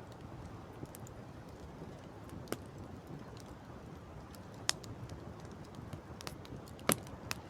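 Campfire crackling, with sharp irregular pops a second or two apart, the loudest near the end, over a steady low rushing background.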